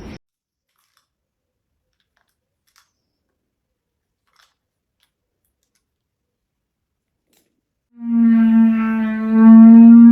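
Near silence, then about eight seconds in a pet starts a loud, steady, long-held howl on one pitch.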